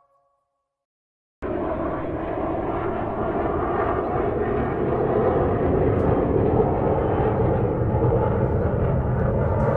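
Steady jet airliner noise, an even rumble of engines and airflow, which cuts in suddenly after a moment of silence.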